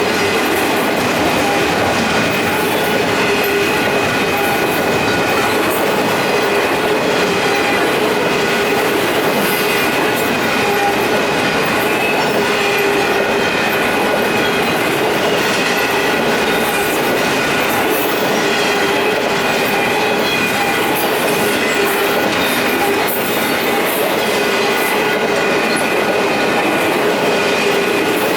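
Union Pacific intermodal double-stack freight cars rolling past at a grade crossing: steady loud wheel-and-rail noise with several steady high tones running over it.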